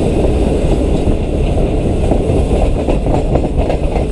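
Pakistan Railways passenger train running at speed, heard through an open carriage door: a loud, steady rumble of wheels on the rails.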